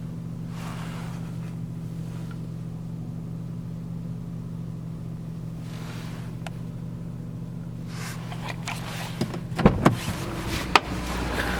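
Chevrolet Cruze 1.6's four-cylinder petrol engine idling steadily. Near the end, a few sharp clicks and knocks.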